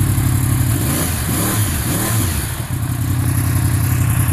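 2015 Yamaha R1's crossplane inline-four idling through a Yoshimura aftermarket exhaust. About a second in, the revs rise and fall under quick throttle blips, then settle back to a steady idle.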